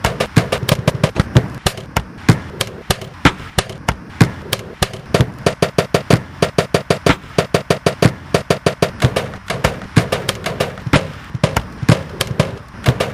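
Rapid knocking and tapping on household appliances (fridge, freezer, microwave), spliced and looped into a fast, dense rhythm of several sharp hits a second. Short chopped snatches of a steady hum sit between the hits.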